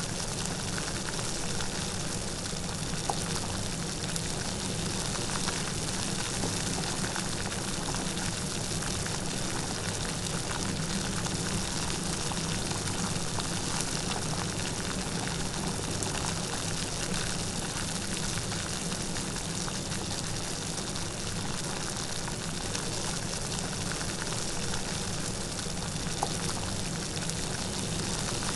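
Steady light rain falling, an even patter of many small drops with no thunder.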